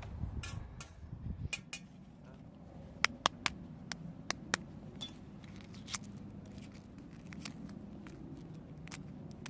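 Small objects being handled at close range: rustling and scraping at first, then about five sharp clicks in quick succession a few seconds in, with a few fainter ticks afterwards.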